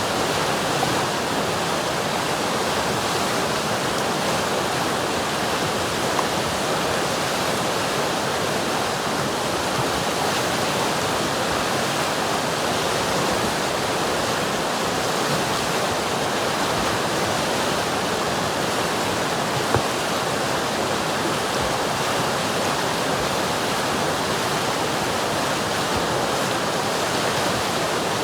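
River water rushing and splashing over rocks in a steady, unbroken wash of noise.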